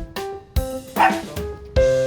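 A small Maltese–Shih Tzu mix dog barking twice, about half a second and a second in, over background piano music. She is barking because she has been left alone by her owners and wants to go with them.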